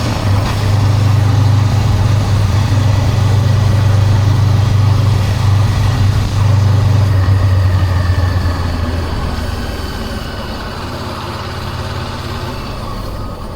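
Honda CB400X's parallel-twin engine running with a steady note, easing off about nine seconds in and getting quieter.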